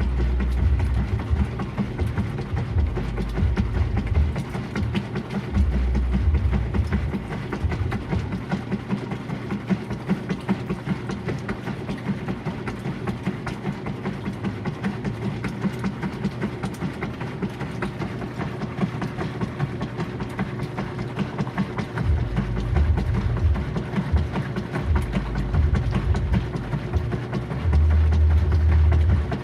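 GE Profile washing machine running, a steady motor hum under a fast, even clatter, with heavy low thumps that come and go, strongest near the start and again in the last third.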